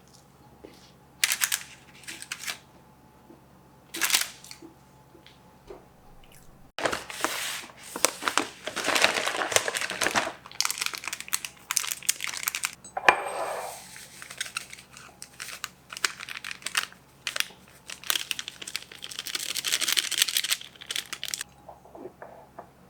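Crinkling and crumpling noises in irregular bursts: a few short ones in the first seconds, then nearly continuous from about seven seconds in until shortly before the end.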